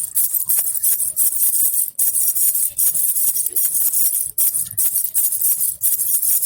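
A baby rattle with small bells (jhunjhuna) shaken over and over, a bright continuous jingle-rattle with a few brief breaks between runs of shaking.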